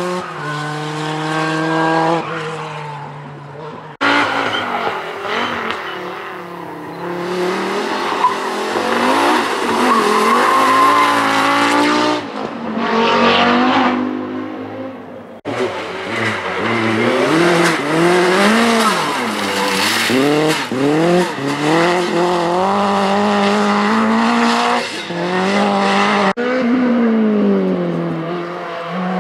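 Group B rally car engines at full throttle, their pitch repeatedly climbing and dropping through gear changes and lifts off the throttle, in several passes cut abruptly one after another.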